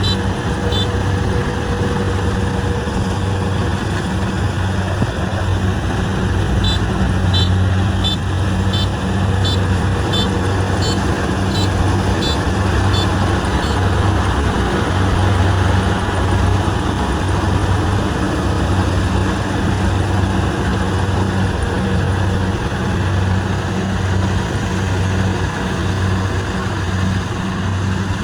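Kubota rice combine harvester's diesel engine running steadily under load, a constant low hum with machinery noise over it. A faint, regular high ticking runs through it for several seconds in the middle.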